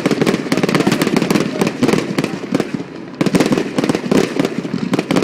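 Fireworks display: a dense, rapid run of crackling bangs and pops. It eases off briefly about halfway through, then picks up again.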